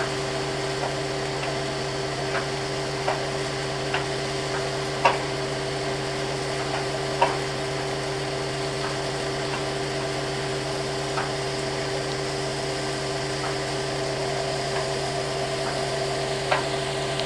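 Steady drone of a ship's engines and machinery under way, holding a constant pitch, with faint light ticks and knocks every second or two.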